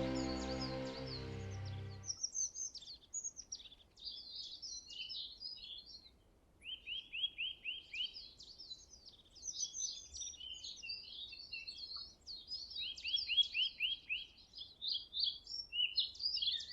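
Music ends about two seconds in, leaving several birds singing and chirping. A run of quick repeated notes comes twice.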